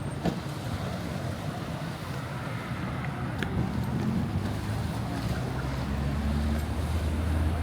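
An engine running, its low hum growing a little louder and steadier toward the end, over a steady wash of wind noise.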